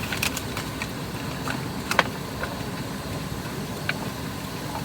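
A steady low rumble with a few sharp clicks and taps, the loudest about two seconds in.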